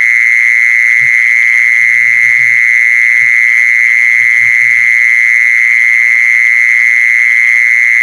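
Playback of an animal lure call: a loud, unbroken high-pitched trill, with short low croak-like calls breaking in every second or so for the first five seconds.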